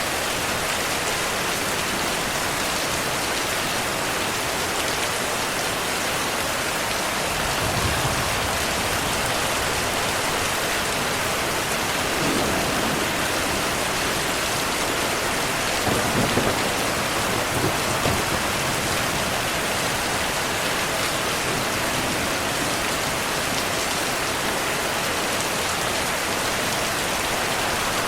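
Heavy rain falling steadily, with a few low rumbles of thunder, the strongest a little past halfway.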